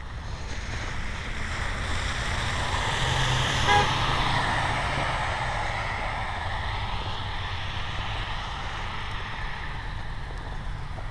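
A road vehicle passing by on a snow-covered street, its tyre and engine noise swelling to a peak about four seconds in and then slowly fading away. A brief pitched toot sounds right at the loudest moment.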